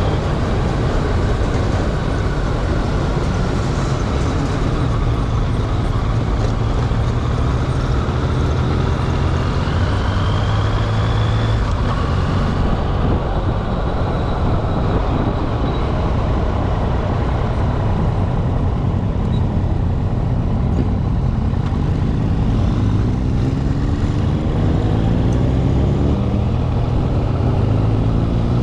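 Motorcycle inline-three engine running steadily over a rumble of other large vehicles, its pitch rising in steps near the end.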